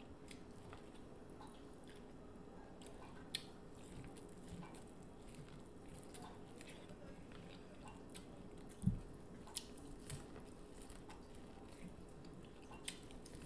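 Close-miked eating: biting into and chewing sauce-covered corn on the cob, with scattered small wet mouth clicks. One low thump comes about nine seconds in.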